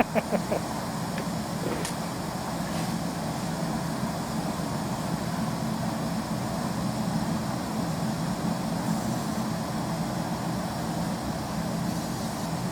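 Forced air draught blowing into a wood fire in a metal burn bin, running with a steady rushing noise over a low hum.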